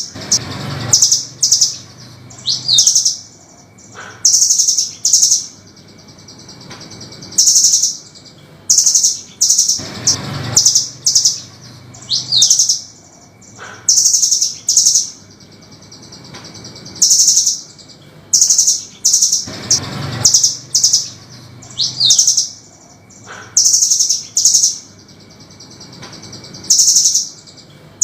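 Velvet-fronted nuthatch (burung rambatan) song: short bursts of rapid, high, sharp trilled notes, one after another, in a sequence that repeats about every ten seconds.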